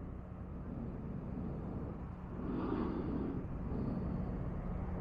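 Low, steady motor-vehicle hum that swells louder for about a second, starting about two and a half seconds in.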